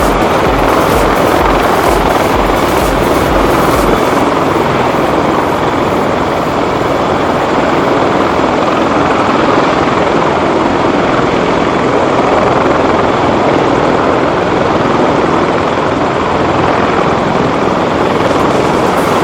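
Rotor noise of heavy military rotorcraft in flight: a loud, steady rush with a pulsing low beat that is strongest in the first four seconds and then eases.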